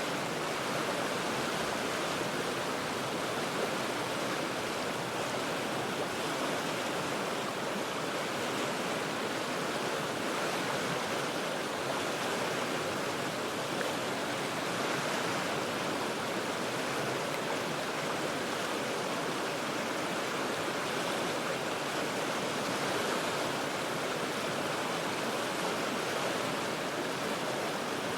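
Steady rush of river rapids, water running continuously over rocks, heard from high above on the bank.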